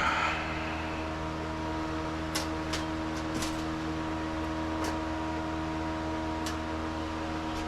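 Steady electric motor hum made of several constant tones, like a running fan, with a few faint light clicks scattered through it.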